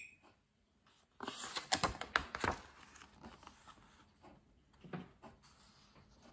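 Paper rustling and flapping as a large picture-book page is turned, starting about a second in and lasting about two seconds, followed by a few faint taps and rubs of a hand on the page.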